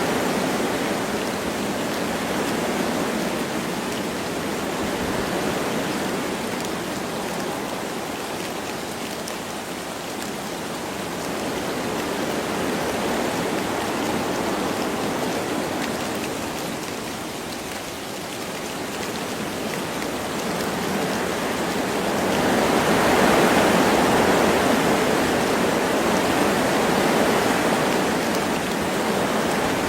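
Wind blowing through forest trees with light rain, a steady rushing noise that swells and eases in slow gusts, strongest near the end.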